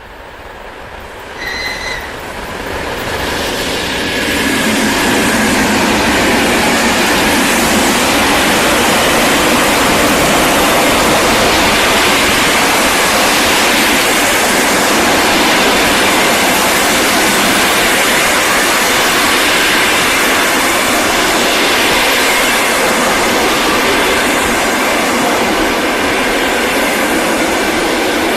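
Electric passenger train passing close by at speed, its wheels and cars running by in a steady loud rush. The sound builds over the first few seconds, and a short high tone sounds near the start.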